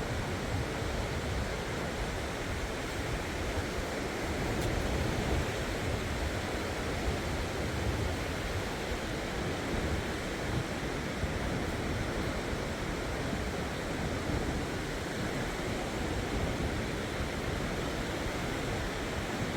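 Steady wash of sea surf on the shore, with wind buffeting the microphone.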